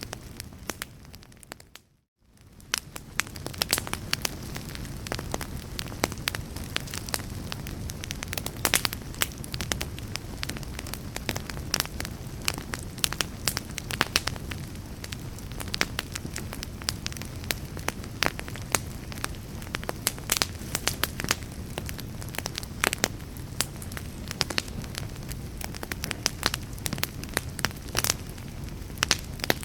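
Fireplace fire crackling, with many sharp pops and snaps over a low steady rumble. The sound fades out to near silence and back in about two seconds in, like the join of a looped recording.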